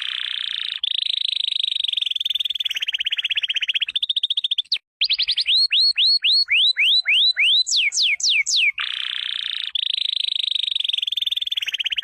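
Male canary singing: runs of fast sweeping whistled notes alternating with long, rapid trills. The song breaks off briefly about five seconds in, then the same phrases start again.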